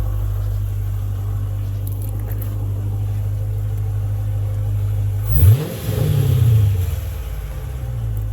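2013 Dodge Charger Pursuit's 5.7 L Hemi V8 idling through open exhaust cutouts, with one quick throttle blip about five seconds in that rises sharply and settles back to idle over a couple of seconds.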